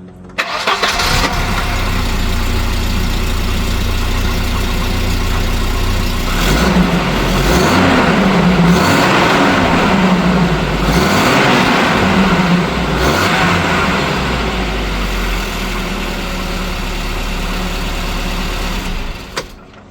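1987 Volvo 240 GLT's 2.3-litre fuel-injected Redblock four-cylinder starting up about half a second in, then running on its new downpipe with several blips of revs rising and falling before settling back, and cutting off near the end. A little blowing remains from one of the rear exhaust joints, fitted without exhaust paste.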